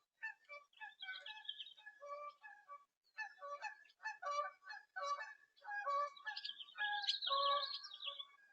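Birds calling: a busy run of short, pitched notes with a gap a few seconds in.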